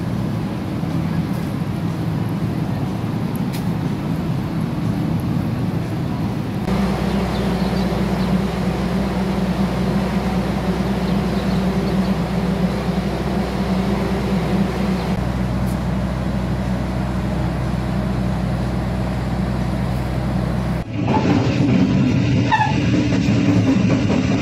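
KA Cikuray passenger train's diesel engines idling at a station platform, a steady low hum. Near the end the sound cuts abruptly to something louder.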